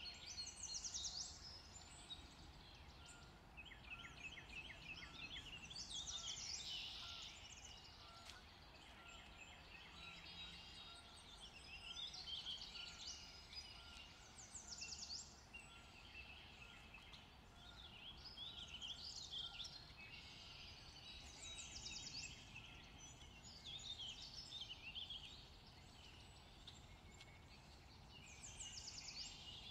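Faint outdoor birdsong: small birds chirping and trilling in short repeated phrases every second or two, over a quiet steady background.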